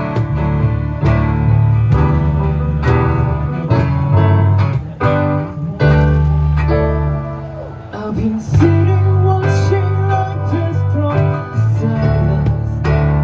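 Live acoustic band playing an instrumental passage: strummed acoustic guitar over a bass guitar line, keyboard chords and a steady cajon beat. Loudness dips briefly a little past halfway, then a lead melody line comes in.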